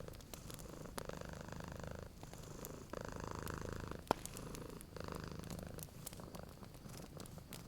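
Cat purring in a steady cycle of breaths, with a wood fire crackling and one louder pop about four seconds in.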